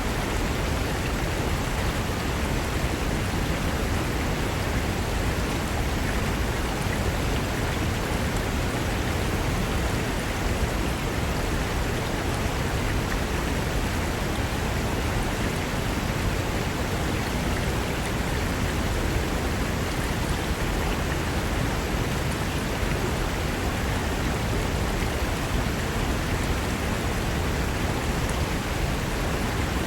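Fast-flowing mountain river rushing over rocks, a steady, even wash of water noise.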